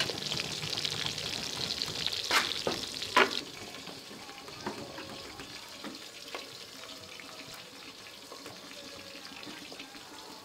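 Sliced onions and garlic sizzling in hot oil in an aluminium pot. The sizzle is loudest over the first three seconds or so, with a few sharp knocks in that stretch, then settles to a softer, steady sizzle.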